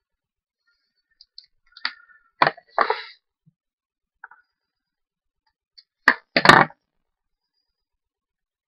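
Short crackling and clicking noises from card-making materials being handled on a desk, coming in two brief clusters about four seconds apart.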